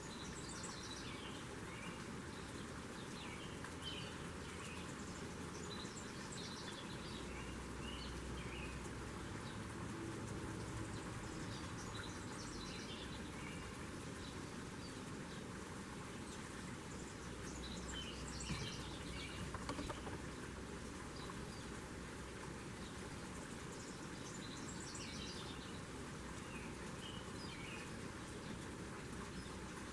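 A songbird repeating a short twittering phrase of quick high chirps about every five or six seconds, over a steady outdoor hiss.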